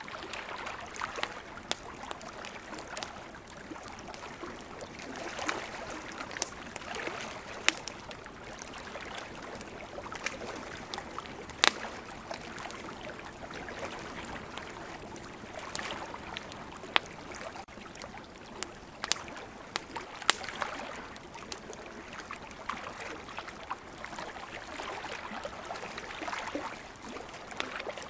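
Campfire crackling, with irregular sharp pops from the burning wood. Behind it, ocean waves wash in and out in slow swells.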